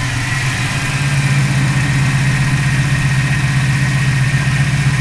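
455 cubic-inch big-block V8 idling steadily. It runs rough enough to rock hard in its mounts, which raises the question of worn motor mounts.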